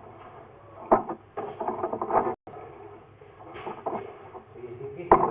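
Two sharp knocks, one about a second in and one near the end, with indistinct voices in between.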